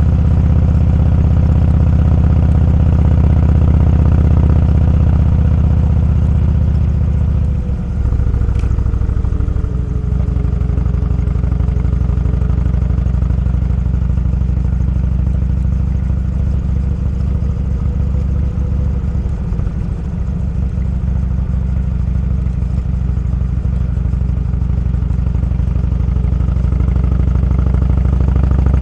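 Motorcycle engine running steadily while riding, its note dipping briefly about eight seconds in and again near twenty seconds, as when easing off the throttle or shifting.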